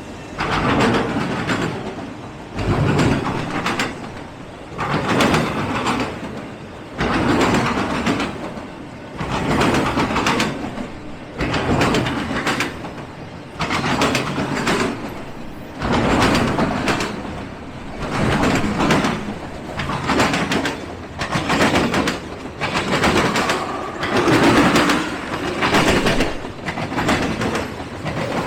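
Freight train cars rolling past, their wheels clacking over the rail joints in loud, even surges about every second and a half.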